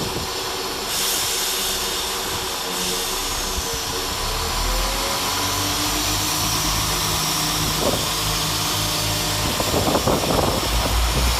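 Class 172 Turbostar diesel multiple unit pulling away, its underfloor diesel engines running steadily. The low engine rumble builds up about four seconds in as it takes power, with a short rising whine.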